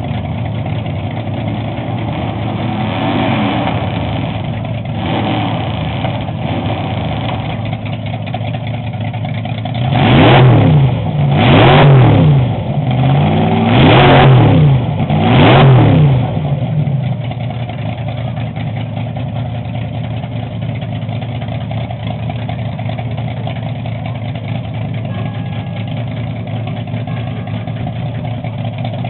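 Chevrolet 348 cubic-inch V8 drag engine idling with a lopey beat, blipped lightly twice, then revved hard four times in quick succession about ten seconds in, each rev climbing and dropping back before it settles to idle again.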